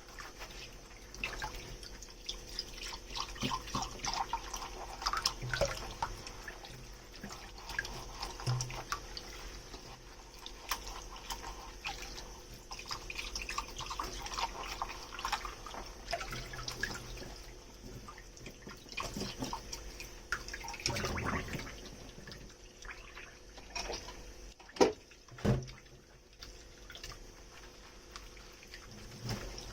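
Dishes being hand-washed at a kitchen sink: water splashing and dripping, with small clinks of tableware, and two sharper knocks near the end as dishes are set down.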